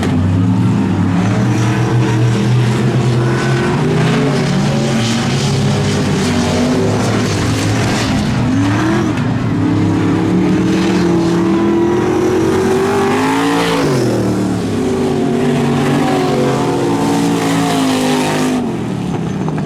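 Truck engines revving hard and easing off again and again, their pitch climbing and falling, with a sharp run up and drop about two-thirds of the way through.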